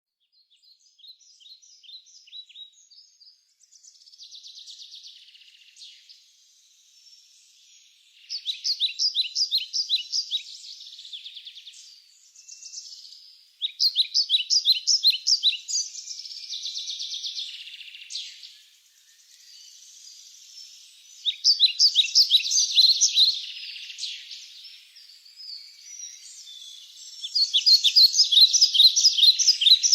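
Songbird singing: trains of rapid, evenly repeated high chirps, about two seconds each, four loud ones with softer chirping between.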